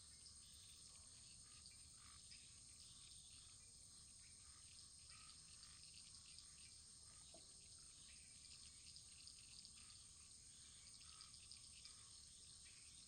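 Faint wood fire crackling: many small ticks and pops over a steady hiss.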